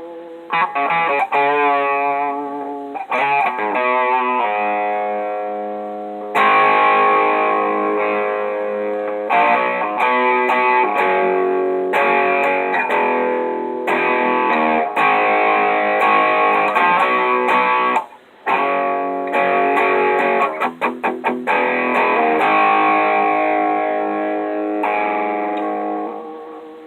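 Electric guitar played through an Electro-Harmonix Screaming Bird treble booster set at about 11 o'clock: ringing chords and single-note lines with a bright, brilliant edge, with quick choppy strums around two thirds of the way in.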